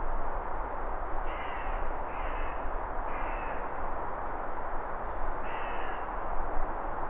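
A bird cawing four times: three harsh calls in quick succession, then one more after a pause. A steady rushing background runs beneath.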